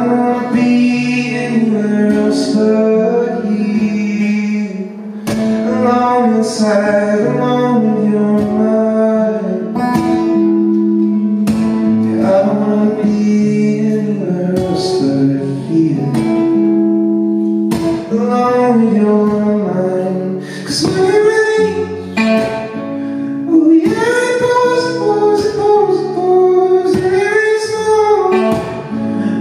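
A song performed live on guitar with a singing voice, the voice holding and bending notes without clear words.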